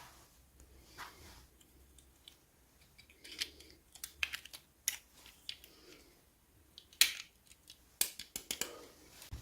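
Irregular small clicks and taps from miniature toy pieces and their packaging being handled during an unboxing, thickest in the second half, with the sharpest click about seven seconds in.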